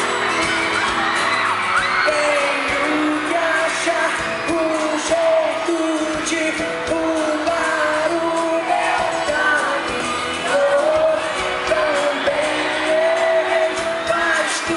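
Live pop band performance with a voice singing a continuous melody over the band, thin on bass.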